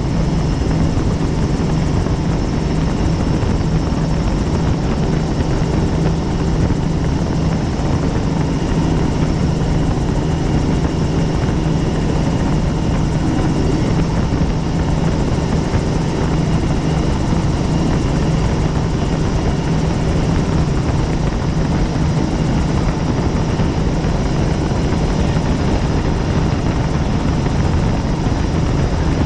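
Helicopter running steadily, a constant heavy rotor and engine noise with a faint high whine on top.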